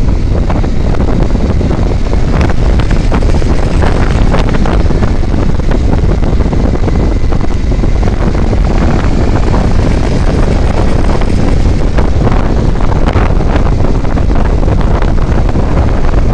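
Strong wind buffeting the microphone of a moving vehicle, over the vehicle's running engine and road noise. Scattered short clicks sound throughout.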